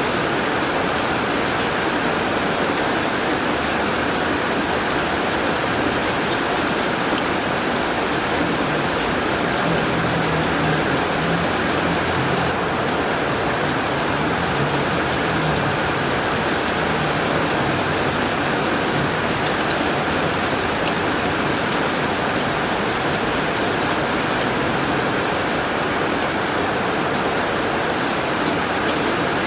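Heavy rain pattering steadily on a tin roof, a dense, even hiss of drops with scattered sharper ticks.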